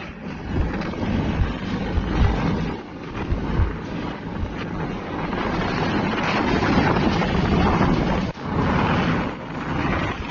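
Road traffic on a highway with wind buffeting the microphone, a dense rumbling noise that swells louder about six seconds in.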